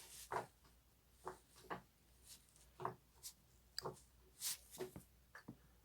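Silicone pop-it fidget toy being pressed, its bubbles popping one at a time in a series of soft, irregular pops about twice a second.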